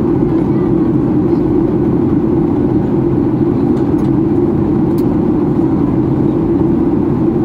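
Steady cabin noise inside a Boeing 737-800 in flight: the even drone of its CFM56 jet engines and the airflow over the fuselage, with a few faint ticks about halfway through.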